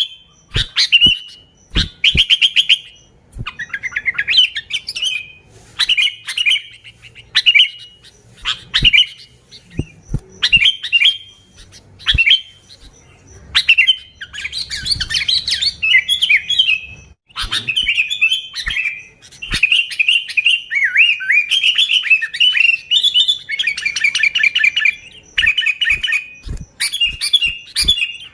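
Sooty-headed bulbul (kutilang) singing vigorously: short, bubbling chirpy phrases one after another with barely a pause, and sharp clicks between some of them.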